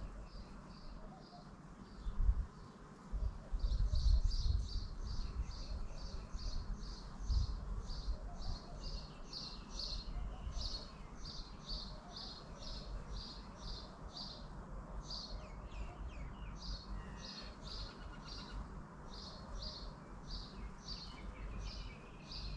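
A bird repeating a short high chirp over and over, about two a second. Low gusts of wind rumble on the microphone a couple of times early on.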